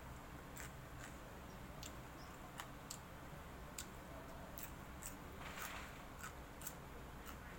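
Faint eating sounds: about a dozen short, sharp mouth clicks at an uneven pace, with a brief soft rustle a little after halfway.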